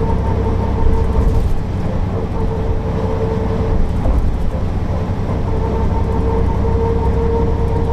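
Mercedes-Benz O408 city bus running steadily, with a low diesel rumble and a steady whine on top. The whine drops away for a second or two midway, then comes back.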